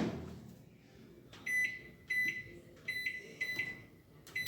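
Microwave oven beeping: a run of about five short electronic beeps, under a second apart, signalling that the cooking cycle has finished.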